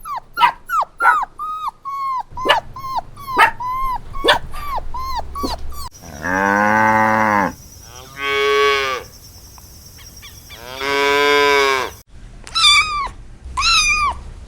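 Three cut-together animal clips. First, rapid high peeping of young poultry, several short falling peeps a second. Then a cow mooing three times, each moo long and low. Near the end, a kitten meowing repeatedly.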